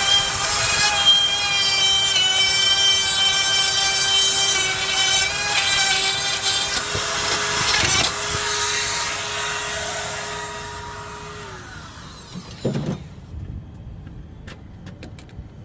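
A handheld power tool running under load with a steady high whine, then released about eleven and a half seconds in and winding down to a stop, followed by a short knock.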